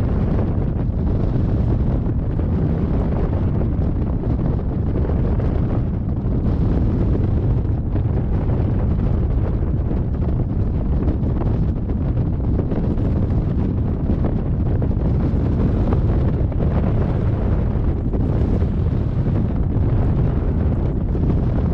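Airflow buffeting the GoPro microphone on a hang glider in tow flight. It is steady, loud wind noise, heaviest in the low end, with a constant gusty flutter.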